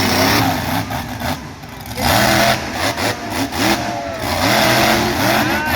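Monster truck engine revving hard, its pitch rising and falling again and again, with loud surges of engine noise about two seconds in and again near the end.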